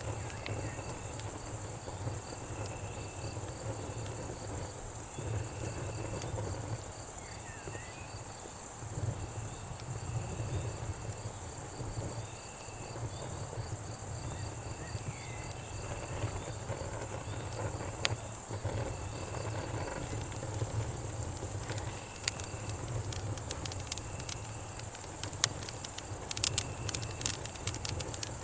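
Night insect chorus of cicadas and crickets: a steady high drone with a fine trill and a short chirp repeating about once a second. A low rumble sits underneath, and campfire crackles snap now and then, clustering near the end.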